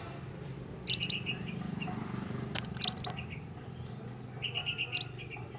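A minivet (burung mantenan) giving short, high chirping calls in three quick bursts: about a second in, around three seconds, and near the end. A steady low hum runs underneath.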